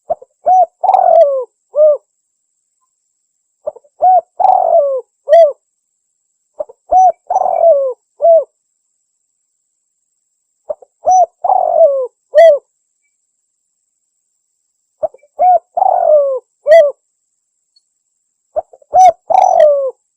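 Spotted dove cooing: six repeated phrases, one every three to four seconds, each made of a short note, a longer rolling coo and a clipped final note. A recorded lure call of the kind used to draw spotted doves in for hunting.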